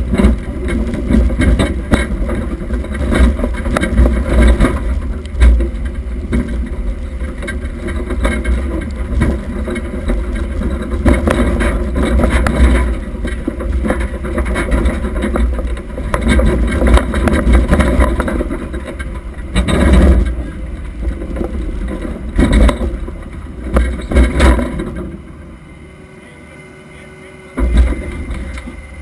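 Demolition derby car, a wrecked 1976 Oldsmobile Cutlass Supreme, running and rattling, heard from a camera fixed to its rear window bar, with steady rumble and frequent knocks and jolts. The noise drops low for a couple of seconds near the end, then comes back suddenly.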